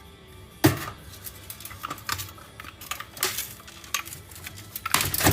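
Metal parts and tools clicking and knocking as a stereo receiver is taken apart for scrap, with a sharp knock well under a second in and a quick run of clicks near the end.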